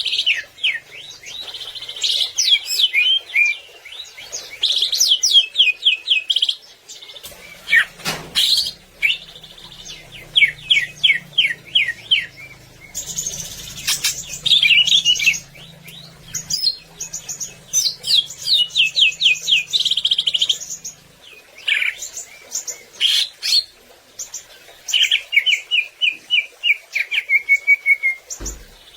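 Cucak ijo (green leafbird) singing hard. It gives phrase after phrase of rapid, quick down-slurred whistled notes, with short pauses between phrases.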